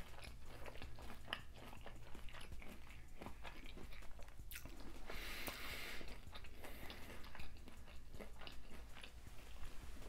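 Close-miked chewing and crunching of a fried, hot-Cheetos-crusted golden king crab leg: a steady run of small crisp crackles and mouth sounds, denser for a second or so around the middle.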